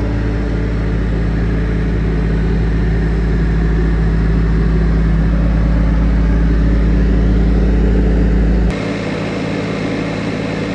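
Bobcat S590 skid steer's 2.4 L four-cylinder turbo diesel engine running steadily, slowly getting louder. Near the end the sound changes suddenly and drops in level.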